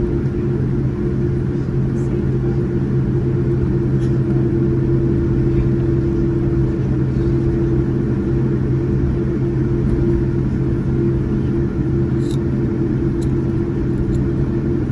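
Steady cabin rumble inside a Boeing 787-9 with GEnx engines, with a constant low hum and a steady higher tone and no change in engine power.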